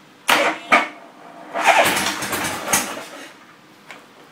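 1979 Harley-Davidson FLH shovelhead V-twin being cranked from cold without catching: two short blips of the starter, then a longer crank of about a second and a half that dies away.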